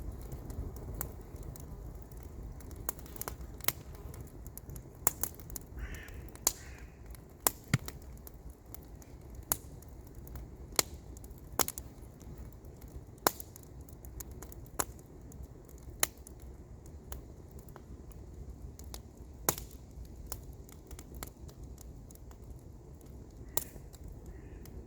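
Wood campfire crackling, with irregular sharp pops and snaps every second or so over a steady low rumble.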